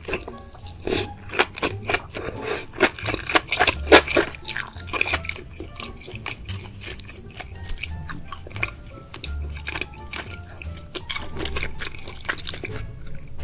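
Close-miked chewing of a mouthful of enoki mushrooms: quick wet crunches and clicks, thickest in the first five seconds, then softer chewing. Background music with a low bass beat plays under it.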